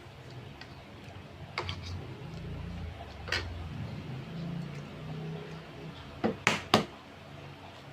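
Close-up eating sounds of a person eating balut: soft chewing and mouth clicks, with three sharp clicks in quick succession near the end.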